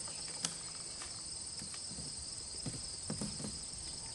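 Steady high-pitched insect chirring, with a faint click about half a second in.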